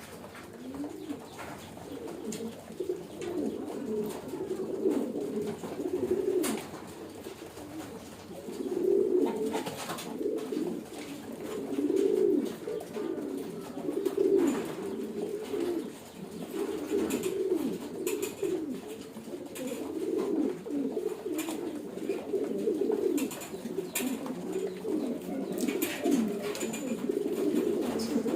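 A loft full of homing pigeons cooing continuously, many birds overlapping, with scattered sharp clicks and taps among them.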